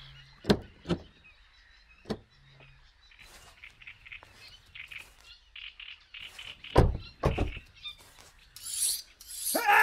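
Small birds chirping in the background, broken by a few sharp clicks and thumps of a car door being opened and shut and someone climbing out, the loudest pair about seven seconds in. A rising hiss builds in the last second.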